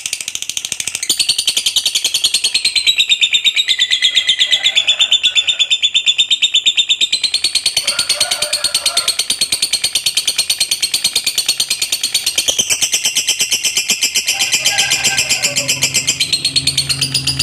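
Lovebird giving a long, unbroken ngekek: a rapid chattering trill of fast, even shrill notes that steps up and down in pitch a few times without pausing.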